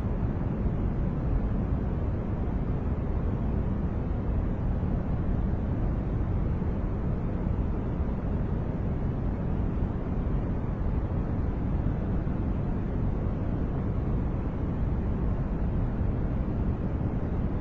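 Steady, unchanging noise track sold as white noise. Its energy lies mostly in the low end, so it sounds like a deep, even rush rather than a bright hiss.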